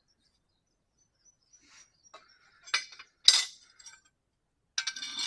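A few sharp metallic clinks with a short ring, metal tools or parts knocking together; the loudest about three seconds in, and a ringing clatter near the end.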